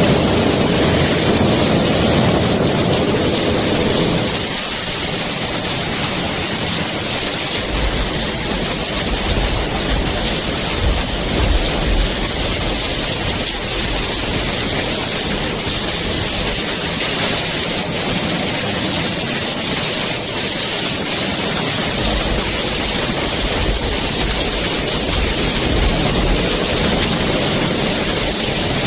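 Heavy rain falling in a steady, even hiss, with a low rumble swelling at the start and again twice later on.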